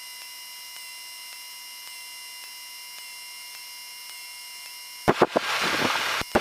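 Steady hiss and a faint electrical whine of several high steady tones, heard over the aircraft's intercom and radio audio feed. About five seconds in, a radio transmission opens with sharp clicks and bursts of static.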